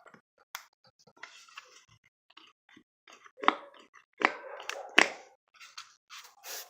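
Clicks, taps and knocks of hand work on a BMW DISA intake valve, with three sharp, loud knocks in the second half.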